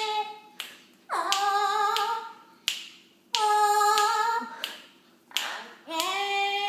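Eclectus parrot singing in imitation of a human voice: a series of long held notes, each about a second, with short pauses between. Some notes swoop up at the start and some waver.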